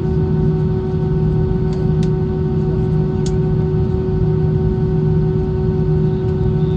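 Airbus A320 cabin noise in flight: a steady deep rumble of engines and airflow with a constant droning hum over it, and a few faint clicks early on.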